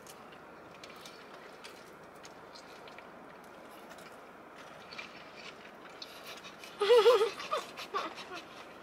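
Faint chewing and small wet mouth clicks of people eating chicken wings, then a short high-pitched wavering giggle about seven seconds in, followed by a few more clicks.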